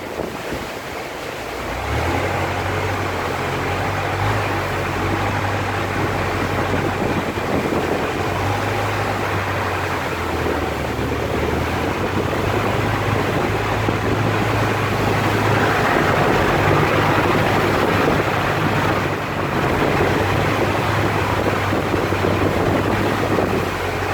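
Boat engine running steadily, its low hum setting in about two seconds in, over a continuous rush of water and wind.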